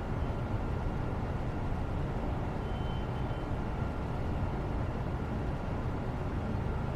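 Steady low ambient rumble with faint hum, unchanging throughout, and a brief faint high tone about three seconds in.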